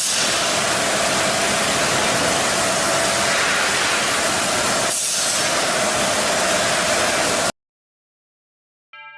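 Loud, steady hiss-like noise with a faint steady hum under it, cutting off abruptly about seven and a half seconds in, followed by silence.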